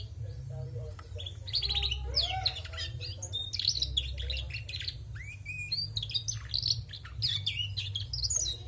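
Female domestic canary singing busily: a rapid, unbroken run of chirps, trills and warbling glides, over a steady low hum.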